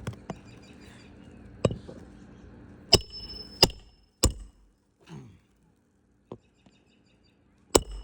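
Sharp metallic strikes on a roof snake nail driver, setting a roofing nail under a shingle: about eight irregular blows, several with a brief metallic ring.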